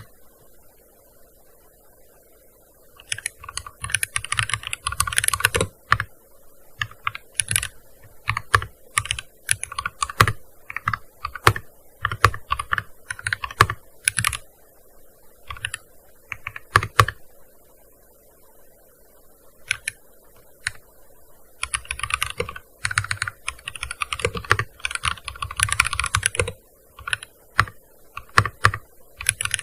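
Typing on a gaming keyboard: a fast run of keystrokes a few seconds in, then scattered single key presses, a short pause, and another quick burst of typing in the second half.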